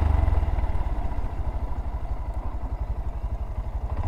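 Small motorcycle engine running at low revs while riding, its exhaust pulses heard as a quick, even beat.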